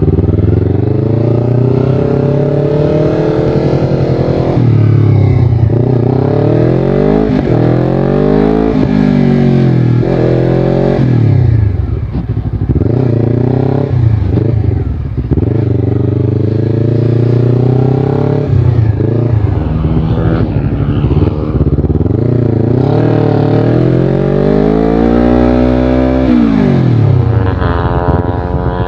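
Honda CBR250RR parallel-twin engine with a Yoshimura exhaust, ridden hard on a track. The engine revs rise in long climbs and fall back over and over as the rider accelerates, shifts and slows for corners.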